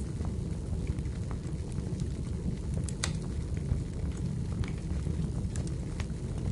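Wood fire burning in a fireplace: a steady low rumble of flame with scattered sharp crackles and pops from the burning logs, the loudest pop about three seconds in.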